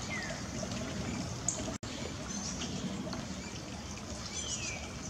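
A songbird singing clear whistled notes that slide downward, one longer slur followed by shorter ones near the end, over a steady outdoor background hiss.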